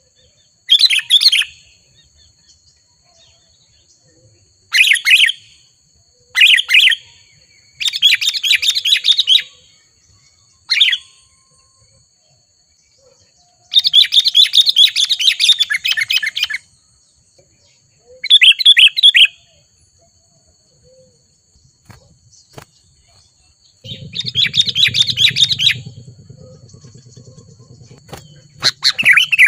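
Sooty-headed bulbul (kutilang) singing in repeated short bursts of quick, chattering notes with pauses between them. A low hum comes in for the last few seconds.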